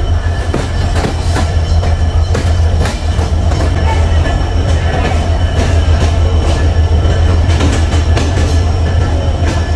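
Passenger train running on the line, heard aboard its PT INKA-built coaches: a steady low rumble from the wheels and running gear, with frequent irregular knocks and clatter from the track.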